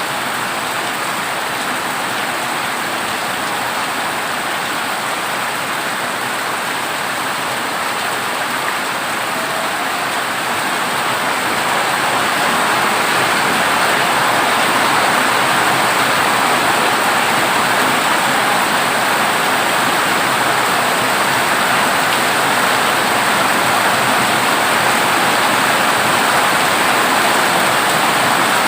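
Heavy rain drumming steadily on a corrugated zinc roof, growing heavier about ten to thirteen seconds in.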